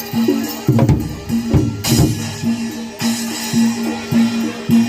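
Live Javanese gamelan accompaniment for a Barongan Blora dance: a steady, repeating pattern of pitched metal notes under drum strokes, with a run of heavier drum hits about a second in and again near two seconds.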